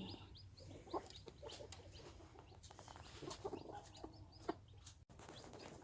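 Broody hen clucking softly with chicks peeping faintly, among scattered small clicks and rustles.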